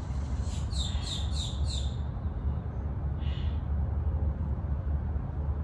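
A bird calling a quick run of about five high, down-slurred chirps, over a steady low rumble.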